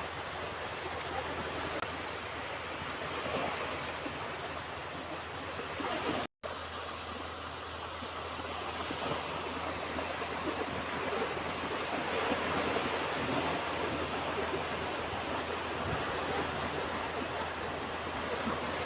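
Ocean surf washing onto a beach: a steady rush of waves that swells and eases slowly. The sound cuts out for an instant about six seconds in.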